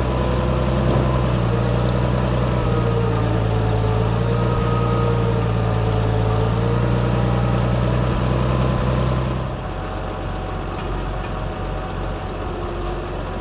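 A 1962 Farmall 460 tractor's engine running steadily, restarted after its plugged hydraulic filters were cleaned. About nine and a half seconds in, its note drops and it runs on quieter.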